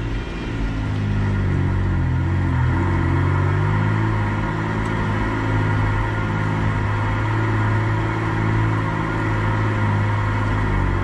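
A 4WD's engine running steadily as the vehicle climbs a rough dirt track. Its note shifts and the level dips briefly just after the start, then it pulls on evenly.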